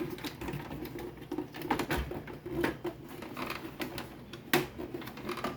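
Plastic housing of a Sharp VZ-1500 boombox being handled and pried apart by hand: irregular light clicks and knocks of plastic parts, with one sharper knock near the end.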